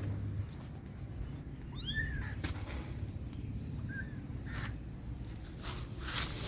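Kittens mewing: a high, arching cry about two seconds in and a shorter, fainter one about two seconds later, with a few brief rustles between.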